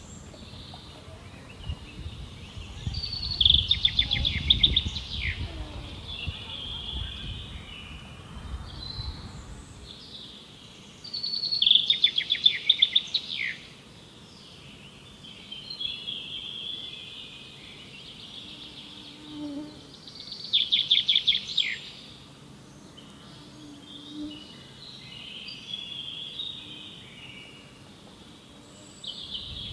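A songbird singing the same short, fast trilled phrase three times, about eight seconds apart, each phrase ending in a quick downward slur, with quieter twittering of other birds between.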